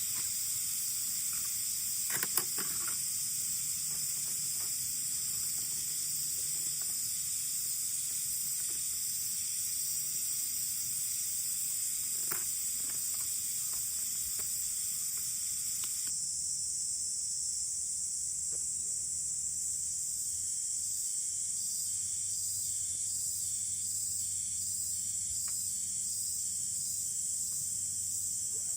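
Steady high-pitched chorus of insects in summer, with a few short crackles or clicks about two seconds in and again around twelve seconds. The sound changes abruptly about sixteen seconds in, the lower part of the hiss dropping away.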